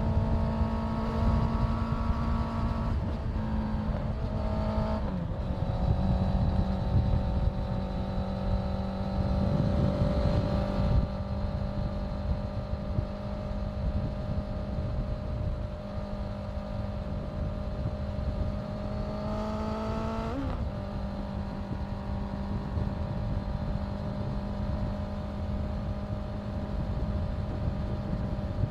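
Honda CBR650F's inline-four engine running at a steady cruising pace with wind rush over the microphone. The engine note dips briefly a few seconds in, and about 20 seconds in it climbs and then drops sharply as the rider shifts up a gear.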